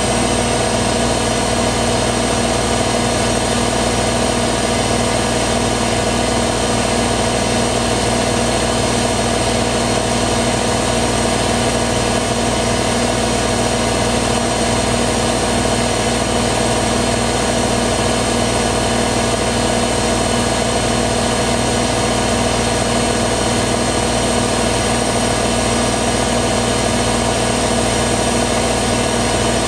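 Hoover WDYNS654D slim-depth washer-dryer running with a steady, even hum and several constant tones.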